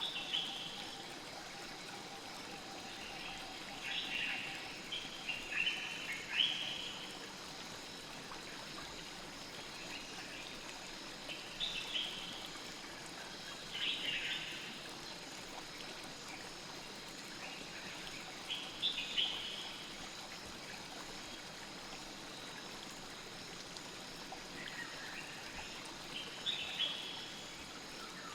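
Night forest ambience: a stream flowing steadily, with clusters of short, high chirping calls every few seconds.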